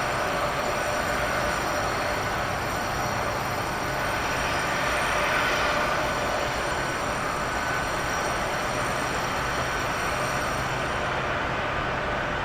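Jet aircraft engines running steadily: a broad rushing noise topped by several high, thin whining tones, which cut off about eleven seconds in.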